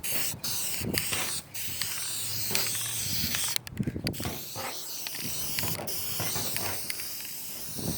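Aerosol spray can of high-temperature clear coat hissing as it is sprayed in long bursts, with a few brief breaks, in gusty wind.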